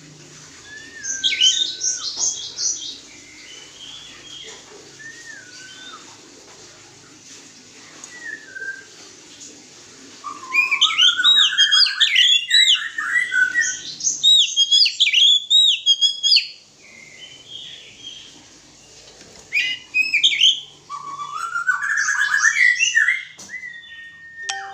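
Oriental magpie-robin singing: three loud bouts of rapid, varied whistled phrases, the longest about ten seconds in, with quieter single whistles between them.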